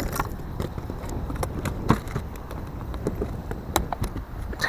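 Wind buffeting the microphone in a steady low rumble, with scattered light clicks and knocks at irregular moments.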